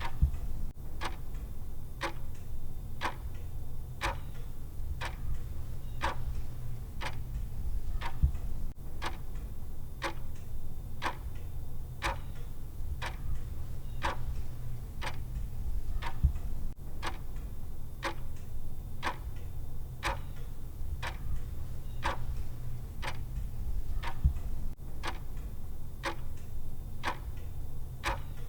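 Clock tick sound effect of a countdown timer: a steady tick-tock, about two ticks a second, over a low steady hum.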